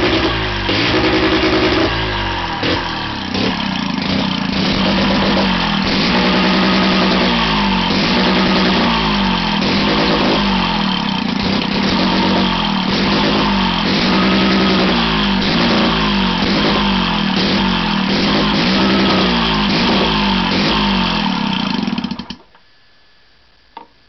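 Sachs KM 48 single-rotor Wankel engine running loud, its pitch repeatedly rising and falling as it is revved up and down. It cuts out abruptly near the end.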